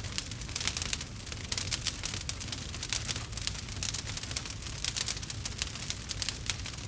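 Wood campfire crackling, with many small, sharp, irregular pops and snaps over a steady low rumble of the burning fire.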